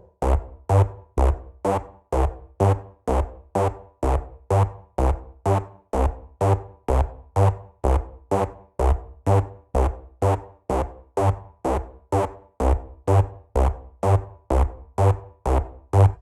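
Gqom drum loop played back from a drum machine: one hit repeated evenly about twice a second, each a deep kick layered with a short pitched tone that dies away quickly.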